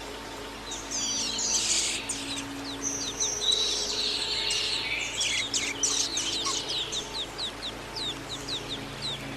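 A songbird singing a rich, varied phrase of quick chirps and whistles. After about six seconds it turns into a run of short, downward-sliding notes, about three a second.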